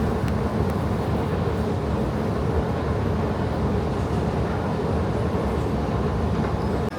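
Steady rumble and running noise of a moving vehicle, heard from on board, cutting off suddenly near the end.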